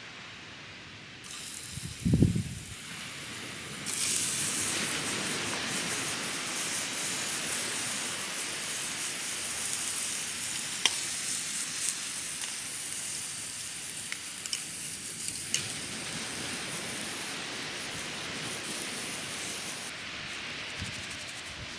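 Shower head spraying water with a steady hiss, after a dull thump about two seconds in.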